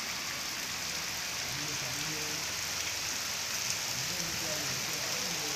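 Steady rain falling on surfaces, an even hiss.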